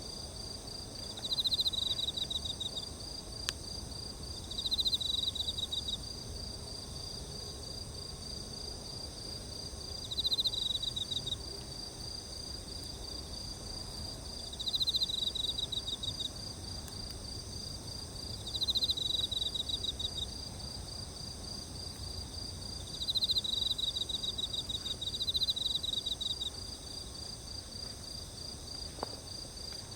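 Night insect chorus: several crickets chirping steadily at a high pitch, with a nearer insect giving short buzzy trills about a second long every four or five seconds. Two faint sharp pops, one a few seconds in and one near the end, fit burning wood in the campfire.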